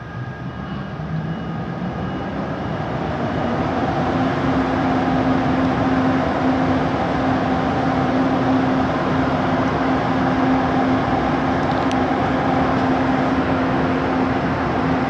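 Train running past on a station track, growing louder over the first four seconds and then holding steady, with a steady low hum running through the rumble.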